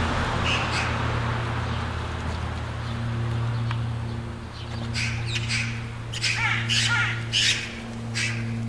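A bird giving a quick run of short, harsh calls, starting about five seconds in and stopping shortly before the end, over a steady low hum.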